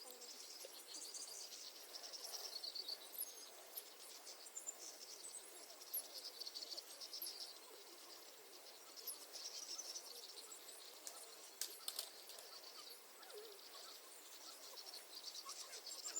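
Evening waterside chorus of birds and insects: high, buzzy trills lasting about a second each, repeating over and over, with short high chirps in between and two sharp clicks about twelve seconds in.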